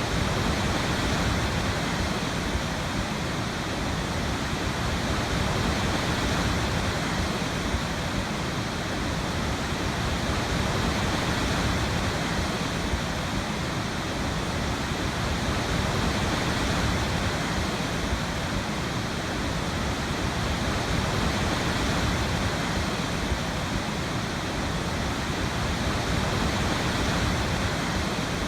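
Waterfall: a steady, even rush of falling water with slow gentle swells in level.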